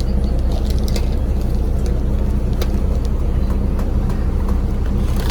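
Charter coach bus under way, heard from inside the cabin: a steady low engine drone with road noise and a few light clicks.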